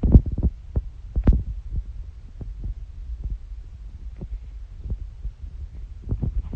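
Low road rumble inside a moving Tesla's cabin, with irregular thumps and knocks, thickest in the first second and a half and sparser after.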